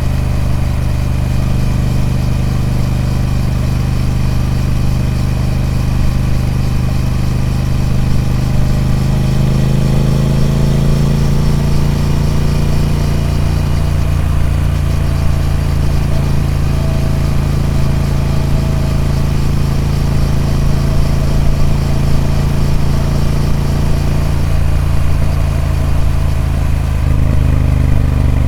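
Triumph Speed Twin 1200's parallel-twin engine running through its stock exhaust, steady, with the engine speed rising a little about ten seconds in, holding, then easing off near the end.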